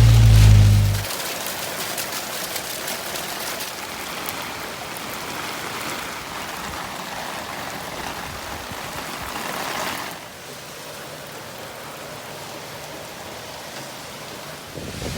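A low engine hum cuts off about a second in, leaving the steady hiss of heavy rain, which turns quieter and duller about ten seconds in.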